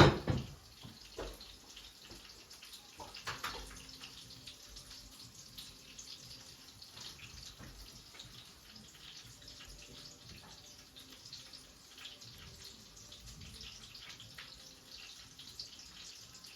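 Water running and dripping, with many small ticks. A loud knock comes at the very start and a smaller clatter about three and a half seconds in.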